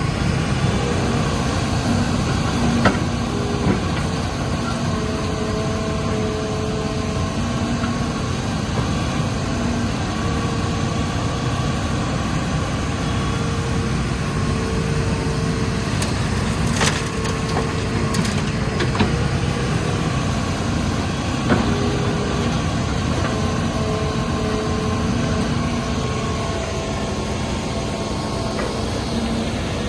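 Hitachi Zaxis 210 excavator's diesel engine running under load, with hydraulic whine that comes and goes as it works, and a few sharp knocks of rock and sand being handled.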